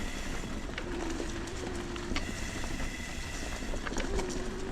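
Mountain bike rolling over a rough forest trail: a steady low rumble of tyres on dirt, with scattered clicks and rattles from the bike and two brief steady hums, each lasting about a second.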